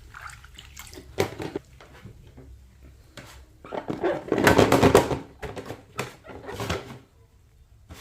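Water splashing and sloshing in irregular bursts, as toys are washed by hand; the loudest stretch is about four to five seconds in.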